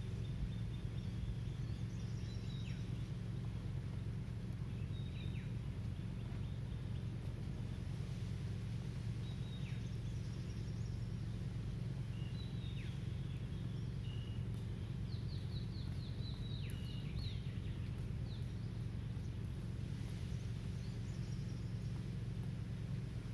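Birds chirping now and then over a steady low rumble, with a quick run of chirps about fifteen seconds in.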